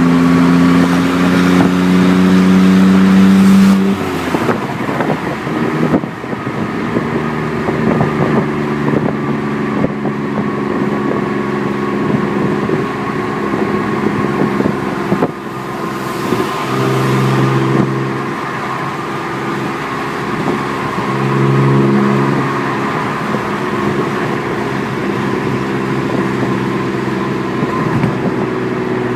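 A 2001 BMW 325i's 2.5-litre straight-six running with no exhaust past the headers: no cats and no mufflers. Its pitch rises gently under throttle for about four seconds, then drops back, and it runs on steadily with two brief louder swells later.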